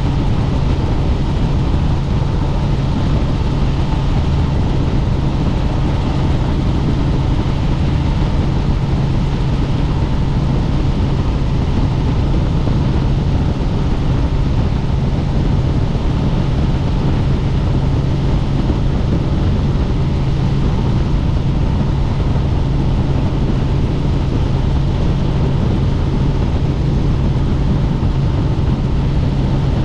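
Helicopter in level flight: loud, unbroken rotor and engine noise with a steady low drone.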